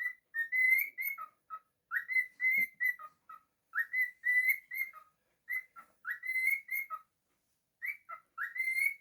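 A pet cockatiel whistling its song: a short phrase of clear, slurred notes that rise and fall, repeated over and over about every two seconds, with brief silences between phrases.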